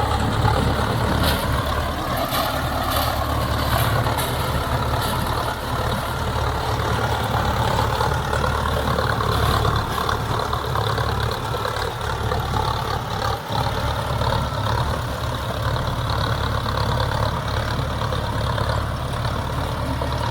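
Mahindra Arjun Novo 605 tractor's diesel engine running steadily with a deep, even drone, with a few faint clicks in the first few seconds.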